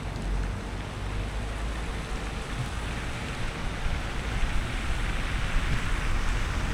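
Car driving in rain on a wet road: a steady low road rumble under the hiss of rain and wet tyre spray, the hiss growing louder in the second half.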